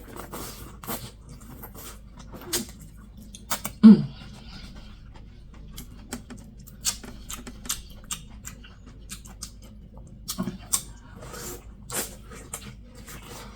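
Close-miked chewing and wet lip smacking, an irregular run of short clicks with louder smacks now and then and a short hum about four seconds in. The food is hot, which makes the smacking extra loud.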